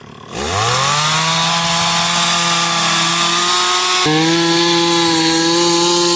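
Chainsaw revving up from idle about a third of a second in and running at full throttle while cutting into a wooden log. Its pitch dips slightly about four seconds in as the bar takes the load.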